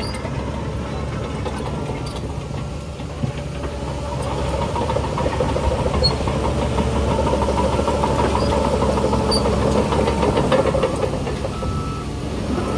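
Heavy diesel engine of earthmoving machinery running steadily under load, getting louder about four seconds in.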